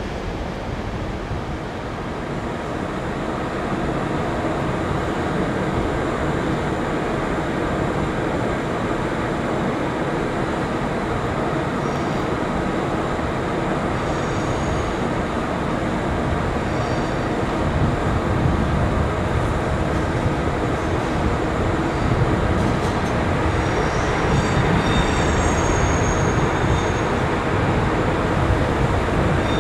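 Train moving along the track: a steady rumble that grows slightly louder, with short high-pitched squeals from the wheels that come more often in the second half.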